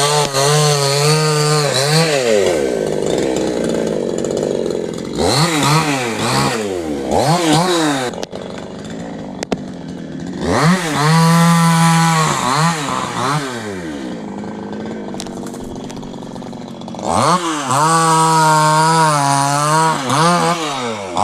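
Chainsaw engine revving up to a high steady full-throttle pitch and dropping back to idle, repeatedly: held high at the start, a few short revs about five to eight seconds in, a long burst about ten seconds in, and another from about seventeen seconds, as it cuts Malabar neem wood.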